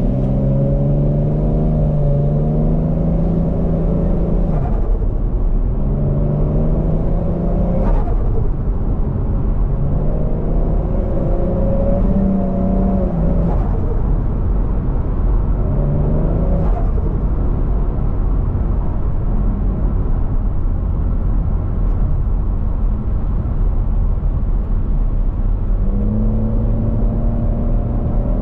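Turbocharged 1JZ-GTE VVTi straight-six in a Scion FR-S pulling hard through the gears: the engine note climbs and drops at each shift about four times, settles into a steadier run, then climbs again near the end.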